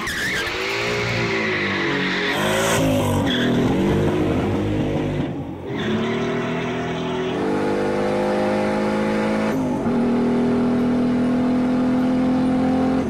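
Nissan R30 Skyline running a 100-horsepower nitrous shot at full throttle on a drag run. The engine revs climb steadily, and the pitch drops back at each gear change, several times over.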